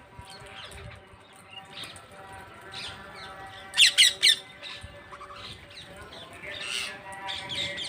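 Parrots squawking: three loud, harsh calls in quick succession about four seconds in, with fainter calls before and after.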